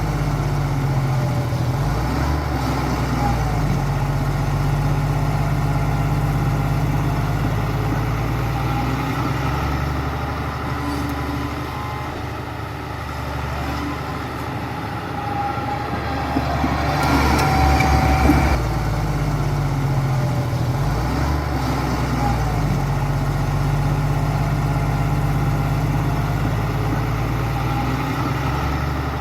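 Diesel engine of a heavy earthmoving machine running under changing load, its pitch stepping up and down several times, with a louder burst of noise a little past halfway.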